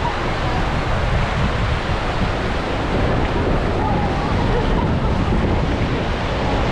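Wind rumbling on the microphone over the steady wash of Atlantic surf, with faint voices of beachgoers in the background.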